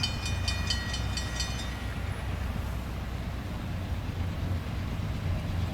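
A train rumbling past, a steady low drone throughout. A high ringing pulses about three times a second and fades out just under two seconds in.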